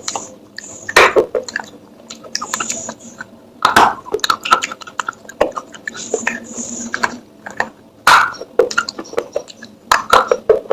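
Clay pottery being handled: a run of sharp clicks, knocks and short scrapes of fired clay, with three loud strikes about a second in, near 4 s and about 8 s in.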